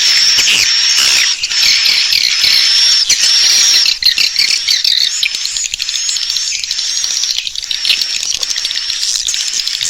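Swiftlet lure call: a continuous stream of high, twittering swiftlet chirps, a clear chirp about every half second over a dense chatter of smaller calls and clicks. It is the call played to draw swiftlets into a nesting house to roost.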